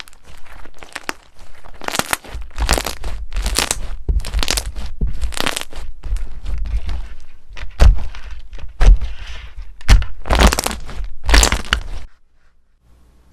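Slime being pressed and worked by hand, in a run of loud, sharp strokes about one a second that stops abruptly about a second before the end.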